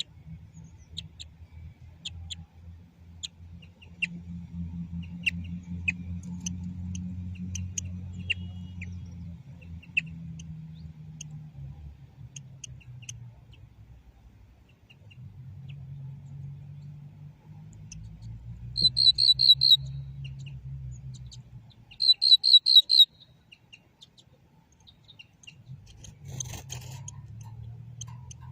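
European goldfinch singing: scattered short, high twittering notes, with two loud bursts of quick repeated notes about two thirds of the way through. A low rumble runs underneath much of the time, and there is a brief rustle near the end.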